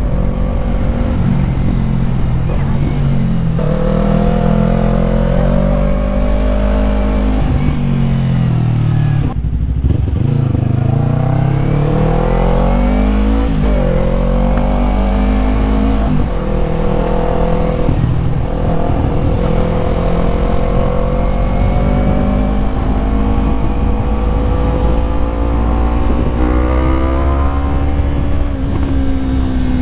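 Yamaha MT-03's parallel-twin engine running under way on the road, its pitch rising and falling with the throttle. It drops sharply about nine seconds in, then climbs again.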